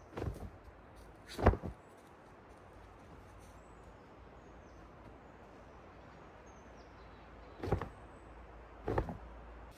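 Four short, sharp knocks or thuds: a light one at the start, the loudest about a second and a half in, and two more near the end, over a faint steady background.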